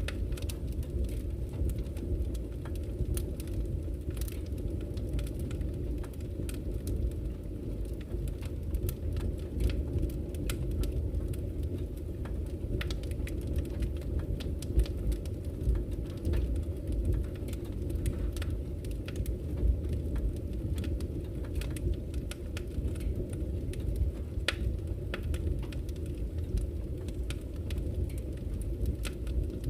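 Campfire crackling with scattered sharp pops, over the steady low rush of flowing river water.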